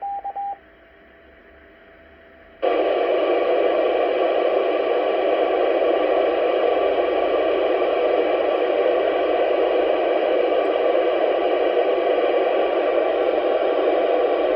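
Amateur FM radio: a short beep comes over the receiver, then a couple of seconds later steady radio static hiss comes on loudly and holds without a break.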